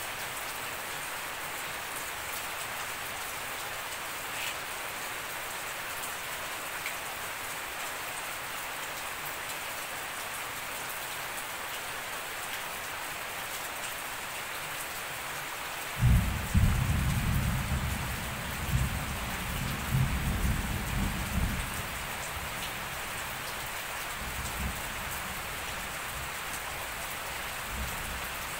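Steady rain falling on a grassy garden and foliage. About two-thirds of the way in, a deep rumble starts suddenly and swells and fades for about six seconds before dying away.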